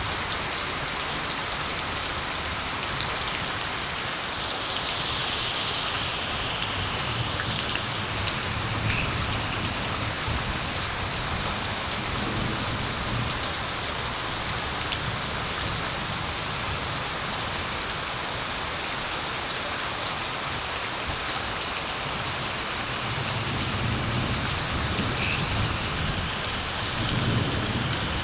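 Steady rain falling, with scattered individual drop ticks. Low distant thunder rumbles softly twice, once about a third of the way in and again near the end.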